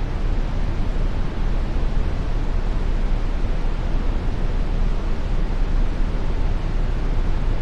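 Steady brown noise: an even, unchanging deep hiss, strongest in the bass and thinning toward the treble.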